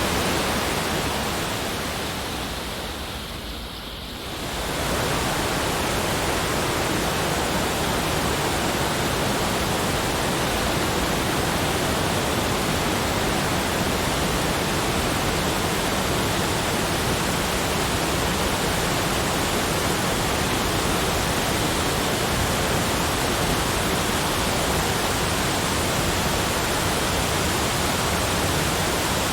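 Steady, even rushing noise that fades down and swells back up again around four seconds in.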